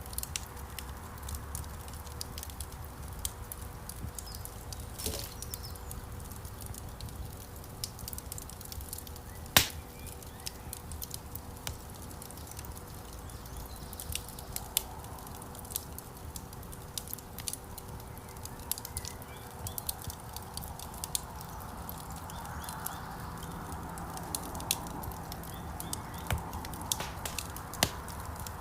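Wood fire crackling in a fireplace: irregular snaps and small pops over the low steady rumble of the flames, with one loud pop about ten seconds in.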